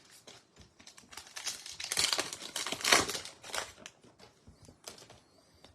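Wrapper of a Topps Heritage High Number baseball card pack being torn open and crinkled. It makes a dense crackle that builds to its loudest around the middle, then thins out into a few scattered crinkles.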